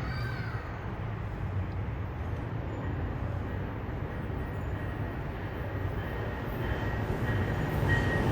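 Amtrak passenger train approaching: a steady low rumble that grows louder over the last couple of seconds, with a faint thin high tone coming in near the end.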